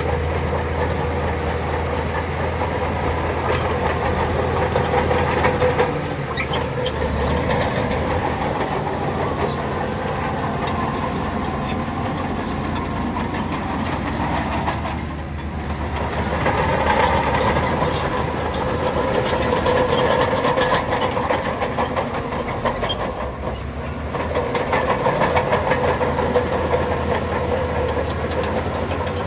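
Shantui crawler bulldozer working, its diesel engine running under varying load, with a steady clatter and rattle of steel tracks. The engine note swells and eases several times.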